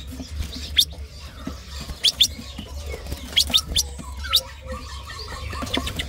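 Caged songbirds giving short, sharp chirps at irregular intervals, some in quick pairs, over a low steady hum.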